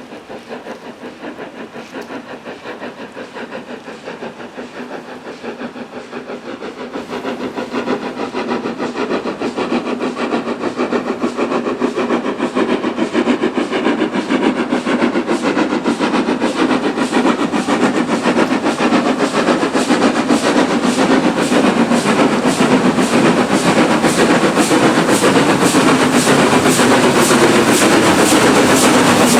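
Somerset & Dorset Joint Railway 7F 2-8-0 steam locomotive 53808 working hard. Its rapid exhaust chuffs grow steadily louder and closer together as it approaches.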